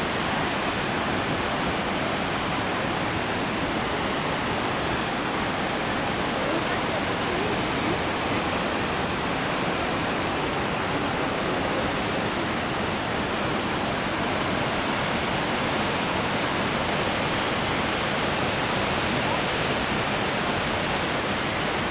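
Goðafoss waterfall: falling water making a steady, even rush of noise that does not change.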